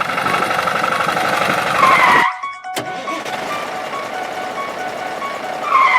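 Car engine running steadily, with a brief bending tone about two seconds in and again near the end.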